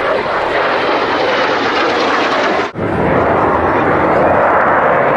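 Jet noise from Blue Impulse Kawasaki T-4 jets flying past: a loud, steady rush that drops out for an instant a little under three seconds in.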